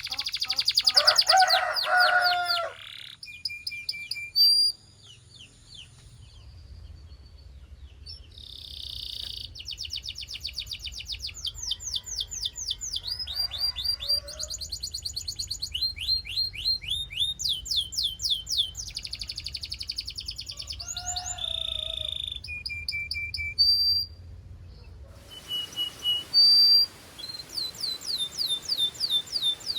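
Canary singing: long phrases of fast, high trilled notes, each a rapid run of repeated notes, broken by short pauses and changes of tour.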